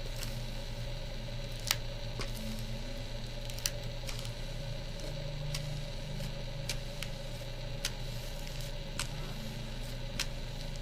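Plastic heat-shrink covering film crackling and ticking in scattered sharp clicks as a covering iron smooths it onto a foam tail surface, over a steady low hum.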